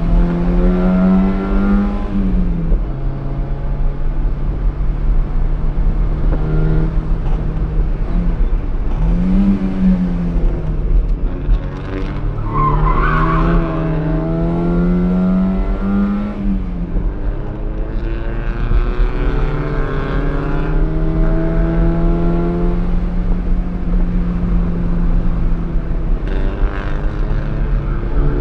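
Fiat X1/9's mid-mounted inline-four engine heard from inside the cabin under racing load, revving up and dropping back several times through gear changes and lifts, with a brief tyre squeal about halfway. In the second half it holds a steady high-rev note on the straight.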